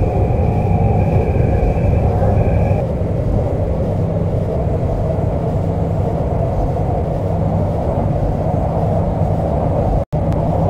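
MTR Kwun Tong line C-Train electric train running between stations: a steady low rumble of wheels on the track, with a high steady whine over it for the first three seconds. The sound cuts out briefly near the end.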